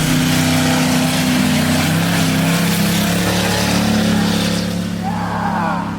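A truck doing a burnout: its engine held at high revs, the steady engine note over a loud, even hiss of spinning tires.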